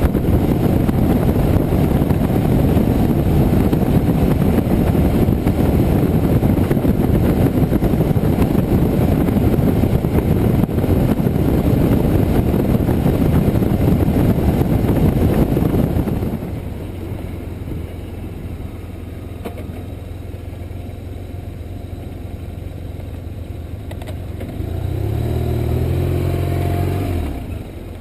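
Motorcycle on the move: engine and road noise, loud and steady, drops to a quieter hum about halfway through as the bike slows. Near the end an engine rises in pitch and falls away over about three seconds.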